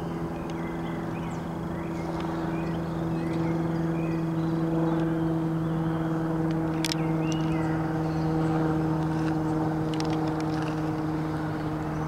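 A bird calling with short, scattered high chirps over a steady low hum that runs throughout and is the loudest sound, swelling slightly after a few seconds.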